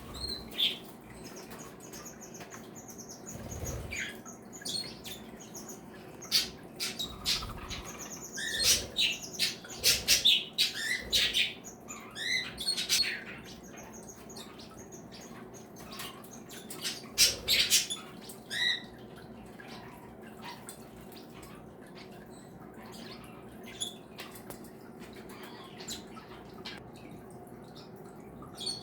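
Mixed flock of caged pet birds (parakeets, cockatiels, canaries and java sparrows) chirping and squawking in short, scattered calls, with a busy spell in the first half that thins out toward the end.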